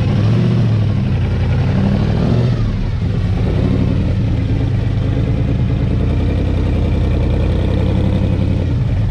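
Car engine running close by at low speed, its pitch rising and falling over the first couple of seconds, then holding steady at idle.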